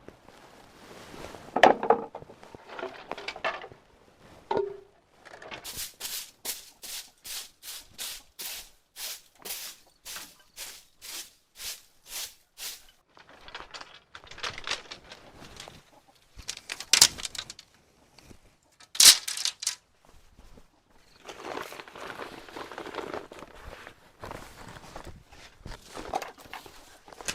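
Chickens clucking among work noises, with a stretch of evenly spaced scraping strokes, about three a second, a few seconds in, and a couple of louder sharp knocks later on.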